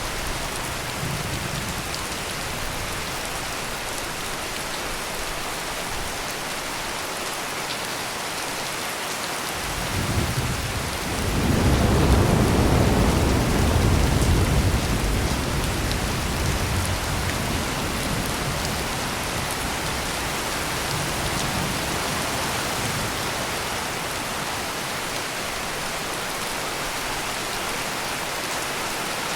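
Heavy rain pouring steadily, with a roll of thunder about ten seconds in that swells into a deep rumble and dies away over several seconds.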